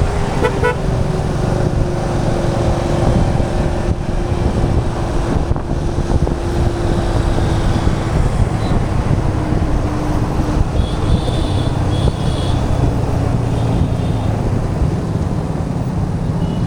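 Motorcycle ride in city traffic: the engine running with wind rushing over the action camera's microphone. A steady hum sinks slightly in pitch over the first half.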